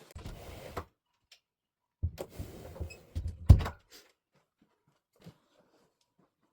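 Handling noise in two short bursts, the second ending in a loud thump about three and a half seconds in, followed by a few faint ticks.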